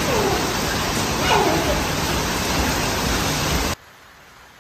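Heavy rain pouring down, a loud steady hiss. About three-quarters of the way through it cuts off abruptly to a much fainter hiss.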